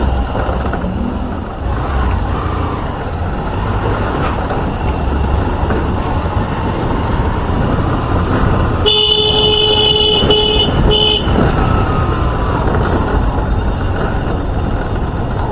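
A vehicle horn sounds about nine seconds in, one longer blast followed by two short ones, over steady road and wind noise from riding in traffic.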